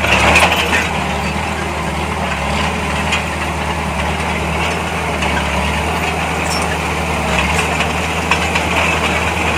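A heavy diesel engine running steadily with a low drone, with a few faint ticks now and then.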